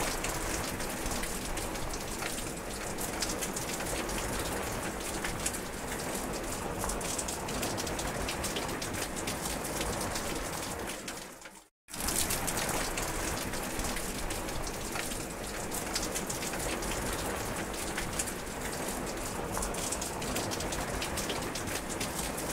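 Steady rain falling, a dense hiss with the fine patter of individual drops. The sound cuts out completely for a split second about halfway through, then resumes unchanged.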